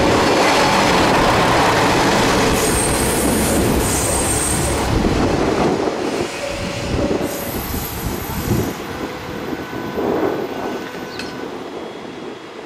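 Freight train behind an EF64 electric locomotive rolling through the station, its wheels squealing in two high-pitched spells over the rumble of the wagons. The overall noise fades steadily.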